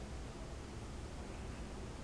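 Freight train rolling past, a steady low rumble under an even hiss, heard from inside a car.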